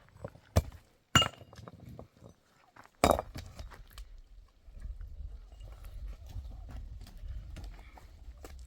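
Three sharp knocks or blows within the first three seconds, then a low rumbling noise that lasts several seconds.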